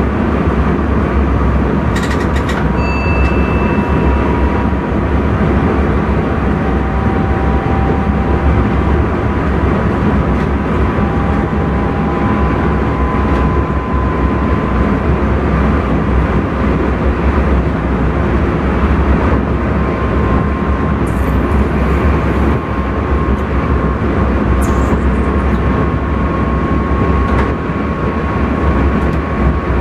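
Intercity train running along the track, heard from inside the driver's cab: a steady rumble of wheels on rail with a faint steady whine, and a few sharp clicks about two seconds in and again two-thirds of the way through.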